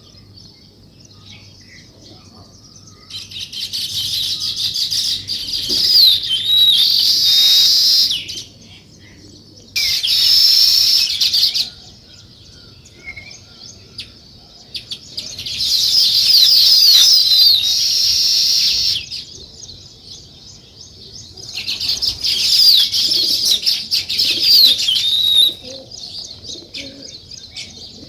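A flock of small songbirds chirping: four loud bouts of dense, high chattering, each lasting a few seconds, over a steady background of softer chirps.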